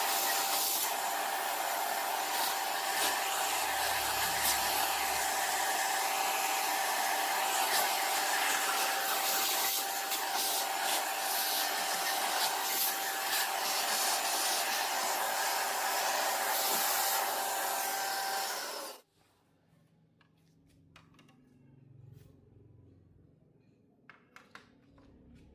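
An electric blower motor running steadily, a rush of air with a thin steady whine, then switched off about 19 seconds in. After that only a few faint small clicks remain.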